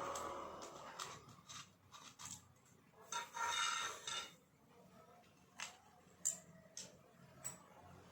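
Small clicks and knocks, with a brief rattling scrape about three seconds in, from the trimmer's plastic housing and parts being handled and taken apart.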